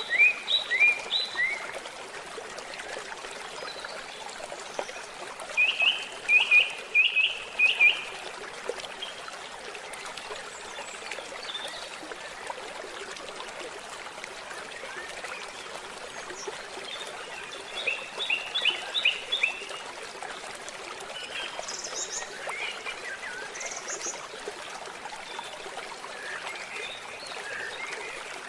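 Small forest stream trickling steadily, with a bird calling over it in short runs of quick, high chirps, about four times.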